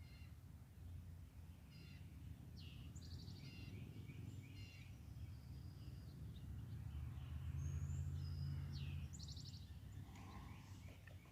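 Several songbirds singing in the background: short repeated chirps and quick trills overlapping throughout. Under them a faint low rumble swells for a couple of seconds in the second half.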